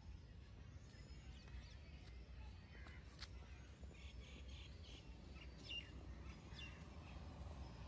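Faint open-air park ambience: a steady low rumble with a few thin bird chirps in the second half, and a single light tick about three seconds in.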